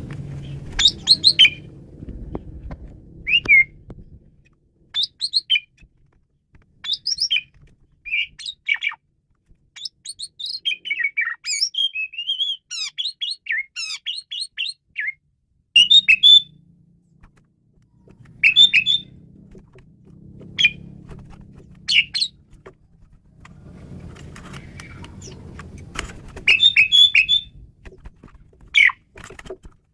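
Pied starling (jalak suren) singing: short whistled and chirping phrases separated by pauses, with a fast, dense run of notes about ten seconds in. A low background rumble comes and goes.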